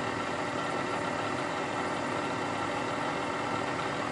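Bridgeport milling machine with its spindle motor running, a steady mechanical hum with a constant whine.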